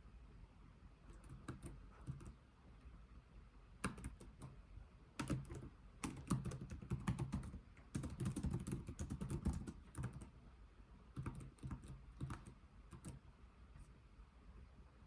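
Computer keyboard typed slowly, with runs of key clicks broken by short pauses and a few scattered keystrokes near the end.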